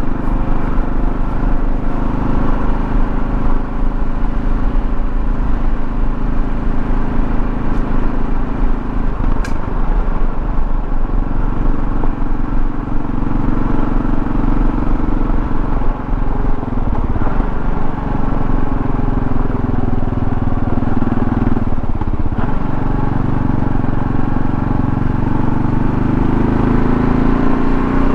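Kawasaki KLR650's single-cylinder engine running under way, with steady road and wind noise. The engine note changes about a third of the way in and again later, then rises near the end as the bike picks up speed.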